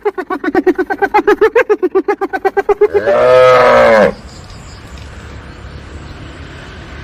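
A large animal calling: a fast run of pulsed, pitched calls, about six to seven a second, then one loud drawn-out call about three seconds in that cuts off about a second later. A low steady rumble follows.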